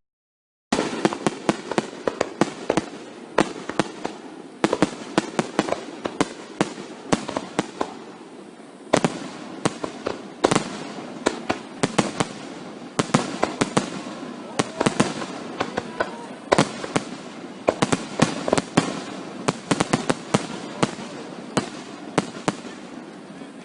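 Fireworks going off in rapid succession: a dense run of bangs and crackling reports, several a second, with a few louder booms standing out. They start after a moment of dead silence at the very beginning.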